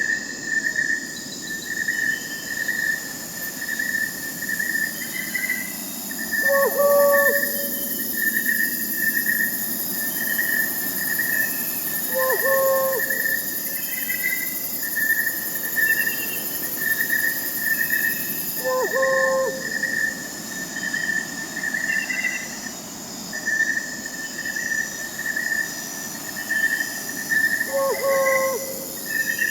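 Crickets chirping in a steady, even pulse over a constant high insect hiss, with an owl giving a short hoot about every six seconds, four times.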